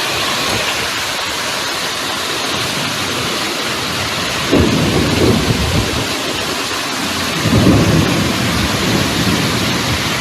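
Heavy rain pouring steadily in a thunderstorm, with two low rolls of thunder: one about halfway through and another about three seconds later.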